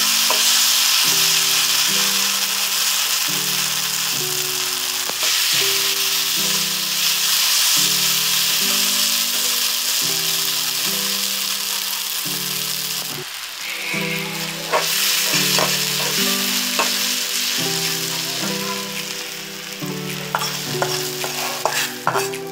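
Onions and green chilies sizzling hard in hot oil in a kadai, stirred with a spatula. Through the second half the spatula clicks and scrapes against the pan. Background music with changing notes plays underneath.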